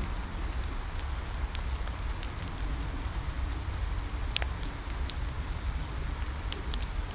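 Steady rain falling, mixed with a wood bonfire crackling: a constant hiss and low rumble with sharp pops scattered throughout, the loudest about four seconds in.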